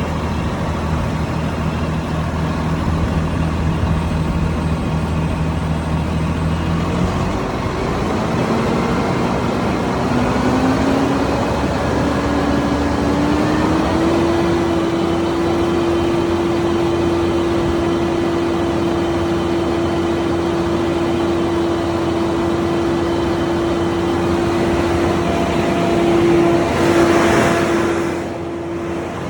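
A crane truck's engine runs at low idle, then revs up in steps over several seconds and holds steady at high revs, as when the engine is sped up to drive the crane's hydraulics. A short hissing burst comes near the end.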